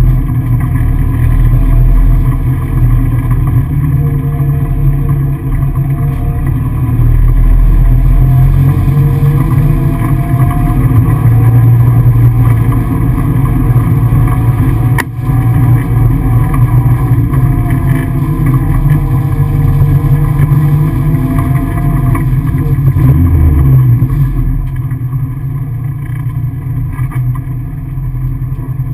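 Peugeot 205 kit car engine heard from inside the cabin, running hard with the revs rising and falling through gear changes. It eases off somewhat near the end, with a single sharp click about halfway through.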